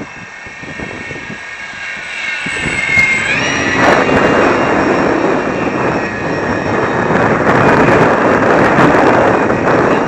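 Electric motor and propeller of an FMS PT-17 radio-controlled model biplane whining, with a jump in pitch about three seconds in as the throttle opens. After that a loud rushing noise builds and covers it, with wind on the microphone.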